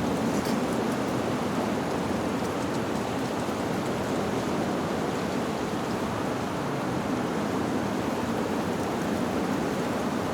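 Steady, even rushing noise of a natural ambience, unbroken throughout, with no wind chimes standing out.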